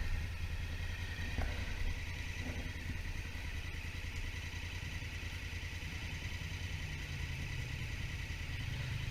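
Honda Africa Twin's parallel-twin engine running steadily, a low even rumble.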